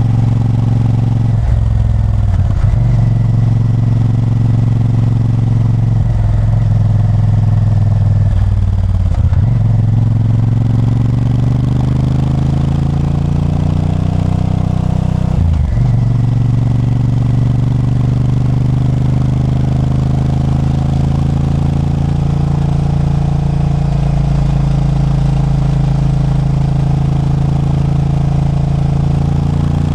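Honda Varadero 1000's 90-degree V-twin engine under way, the revs climbing and then dropping sharply a few times, as at gear changes.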